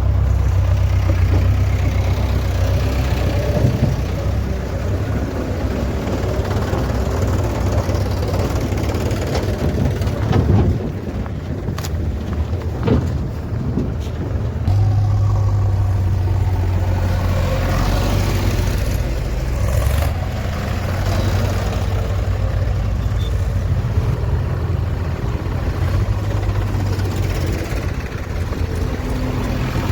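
Heavy diesel engine running steadily at low speed. Its drone strengthens about fifteen seconds in and eases back about five seconds later, with a few knocks a little before.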